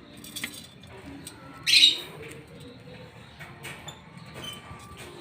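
Lovebirds chirping, with one loud, shrill screech a little under two seconds in and softer short chirps around it.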